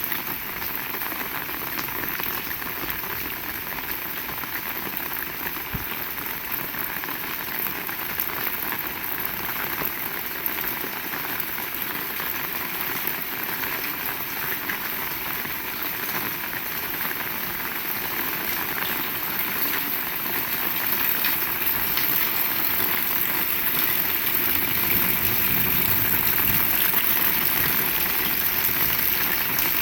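Heavy rain falling steadily, growing louder about two-thirds of the way in.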